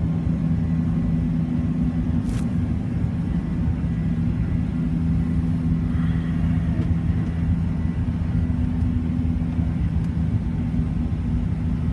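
Cabin noise of a Boeing 737-900ER climbing after takeoff: its CFM56 turbofan engines and the airflow make a steady low rumble with a constant hum. A brief click sounds about two seconds in.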